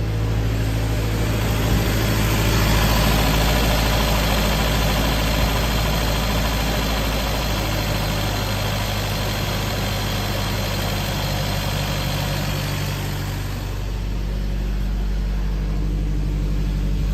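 Toyota 22R four-cylinder engine with a Weber 38 carburetor running at idle. About half a second in it comes up to a higher, steady speed, and it settles back to a steady idle about 14 seconds in.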